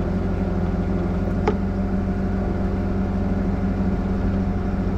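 Truck engine idling steadily, with a single sharp click about a second and a half in.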